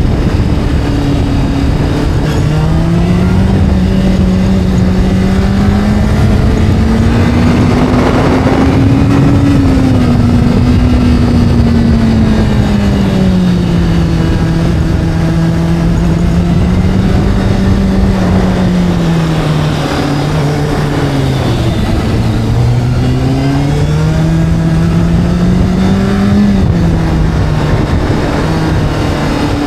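Motorcycle engine running continuously at moderate revs, its pitch slowly rising and falling as the throttle is opened and eased. It dips lowest about two-thirds of the way through and drops quickly near the end.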